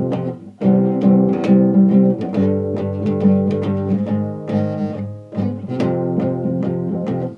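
Acoustic guitar playing a song's instrumental intro: chords plucked and strummed in a steady rhythm, with brief breaks about half a second in and about five seconds in.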